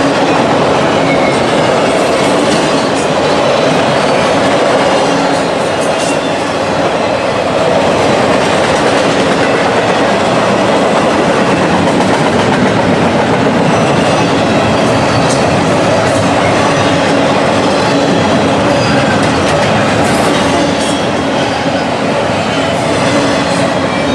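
A train's cars rolling past steadily and loudly, with occasional wheel clicks and a faint, wavering wheel squeal.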